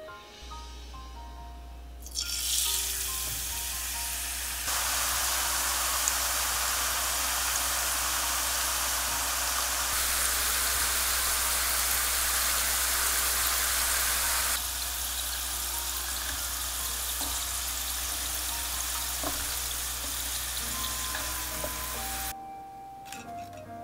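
Lotus root slices frying in hot oil: a dense, even sizzle like rain. It starts about two seconds in, is loudest in the middle, eases a little later and stops shortly before the end.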